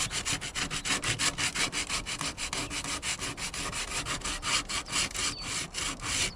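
Sandpaper rubbed by hand back and forth over cured Bondo body filler on van bodywork, in quick even strokes about six a second.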